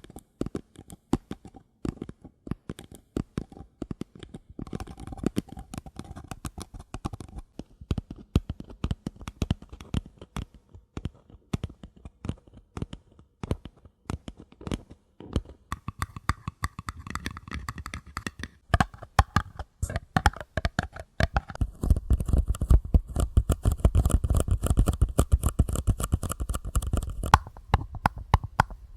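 Paper cups tapped rapidly by hand: a dense run of light taps with a faint hollow ring. The tapping grows thicker and louder for several seconds about three-quarters of the way through.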